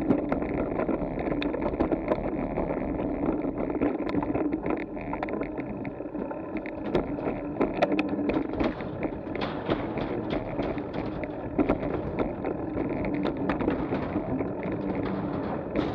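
Bicycle riding over a railway bridge: tyres rolling and the bike rattling, with many sharp clicks and knocks throughout, plus some wind on the microphone.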